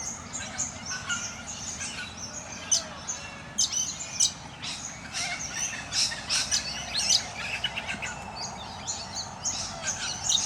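Many wild birds chirping and calling at once: a dense, overlapping chorus of short high chirps and calls.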